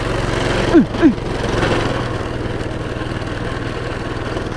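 Small single-cylinder pull-start minibike engine running steadily under way, with two short falling squeaky sounds about a second in.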